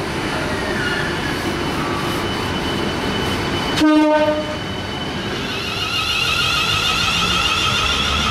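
Class 395 Javelin high-speed electric train running through the platform, with a short horn blast just under four seconds in, the loudest sound here. Then an electric multiple unit passing, its rumble joined by a steady whine from the traction motors from about six seconds in.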